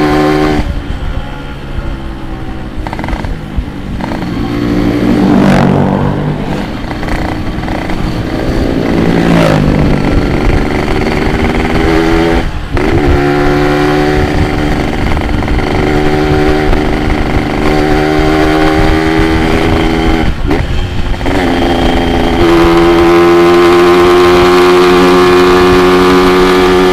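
Yamaha RX-King two-stroke single-cylinder motorcycle engine running hard under the rider, pitch climbing and dropping through gear changes with brief dips at the shifts, and a louder, higher-revving steady pull near the end.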